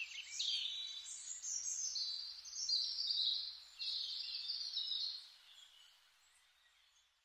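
Songbirds chirping and singing in quick high trills and sweeps, fading out after about five seconds.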